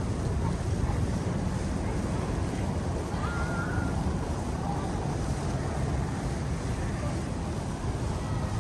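Storm wind buffeting the microphone as a steady low rumble, over the broad hush of the snowbound city.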